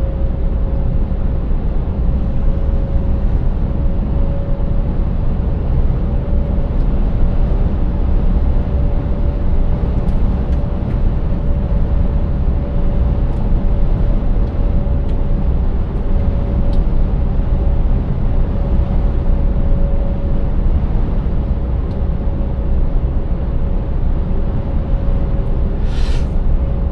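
Scania 590S truck's 16-litre V8 and road noise heard from inside the cab at a steady cruise: a dense low drone with a thin, steady whine riding over it.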